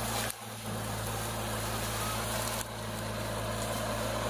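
Tractor diesel engine running steadily at an even speed, with a short dropout about a third of a second in.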